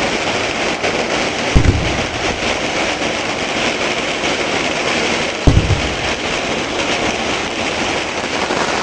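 An open fire burning with a dense, steady crackle, with two short low thumps, about a quarter of the way in and again past the middle.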